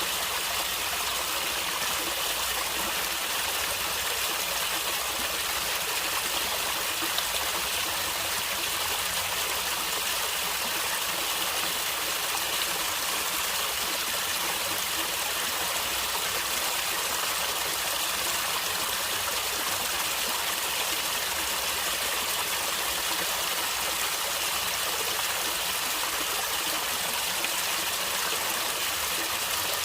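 Stream water flowing and gurgling steadily over rocks, a continuous even rush without change.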